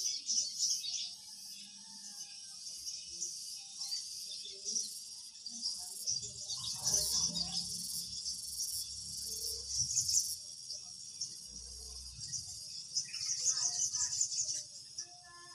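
Insects chirring steadily at a high pitch, pulsing in short beats.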